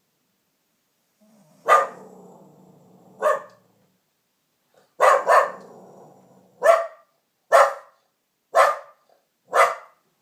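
A dog barking: about eight short barks spaced roughly a second apart, two of them in quick succession about five seconds in.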